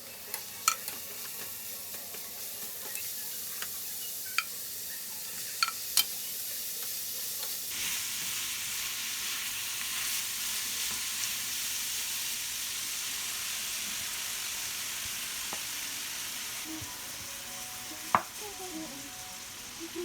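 Red snapper pieces frying in hot oil in a pan: a steady sizzle with scattered sharp pops of spattering oil, the sizzle growing louder about eight seconds in.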